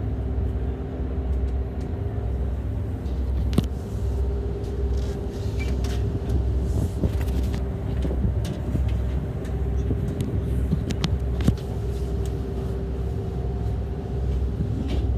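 An engine running steadily: a low, pulsing rumble under a steady hum, with a few light clicks scattered through it.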